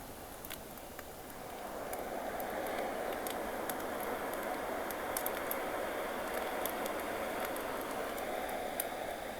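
Sea waves washing in, the rush swelling about two seconds in and holding, with a campfire crackling in scattered sharp pops.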